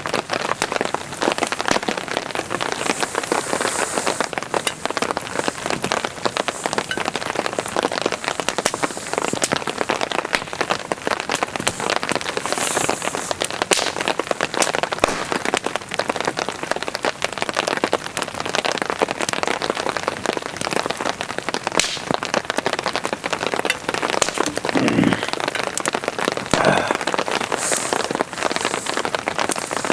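Heavy rain falling steadily, a dense stream of individual drops striking a hard surface close by, with a brief low sound about 25 seconds in.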